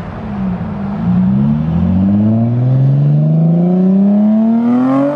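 Car engine accelerating hard, its pitch rising steadily through one long pull.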